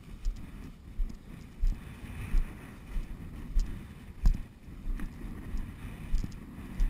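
Footsteps of a hunter walking through a field: a dull thump about every two-thirds of a second, over a low rumble of wind on the microphone and a faint hiss.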